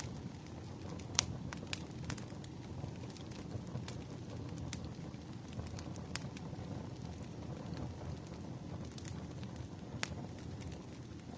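Wood fire burning, crackling with scattered sharp pops over a low steady rumble; the loudest pop comes about a second in, another near the end.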